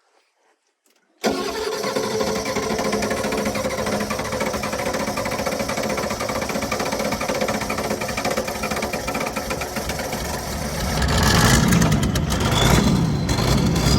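IDI diesel V8 comes in suddenly about a second in and runs with an even rhythm, then gets louder near the end with a faint whine rising and falling. It is an engine the owner fears might be blown, with low compression suspected on six to seven of its eight cylinders and no oil pressure seen while cranking.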